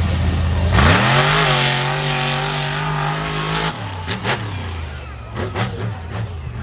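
Monster truck engine idling low, then revved hard about a second in, its pitch sweeping up and held high for about three seconds before dropping back. A string of sharp cracks follows over a lower engine rumble.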